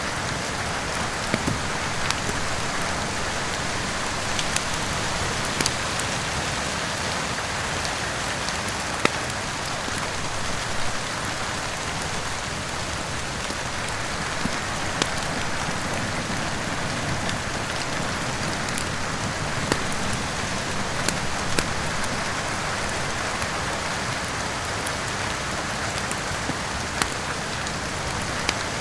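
Steady rain with scattered sharp pops from a crackling fireplace fire, a few every several seconds.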